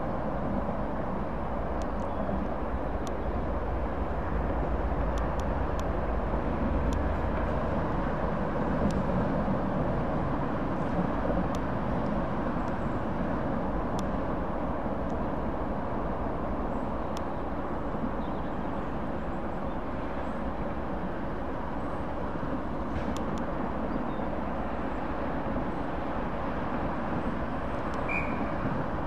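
Steady rumble of a short train moving slowly along the platform, propelled by a British Rail Class 08 diesel-electric shunter running at the far end, with a few faint clicks.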